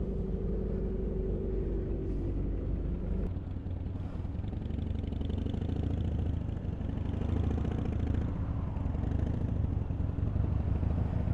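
KTM Duke 390's single-cylinder engine running while riding, its pitch shifting about three seconds in, with wind noise on the helmet microphone.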